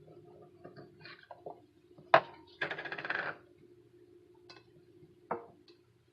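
Kitchen dishware being handled on a counter: one sharp knock about two seconds in, a brief scraping rustle just after, and a lighter knock near the end, with a few small clicks and a faint steady hum underneath.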